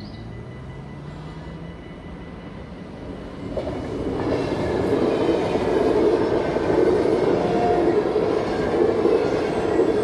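NS VIRM double-deck electric train passing over a level crossing. Its rumble swells about three and a half seconds in and stays loud.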